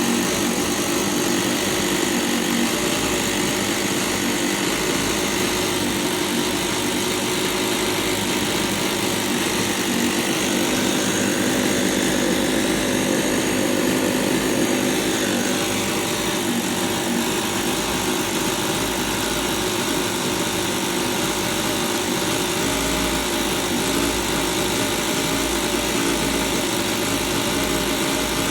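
HOWIN L6 scale model inline-six engine, modelled on the Ford 300, running steadily.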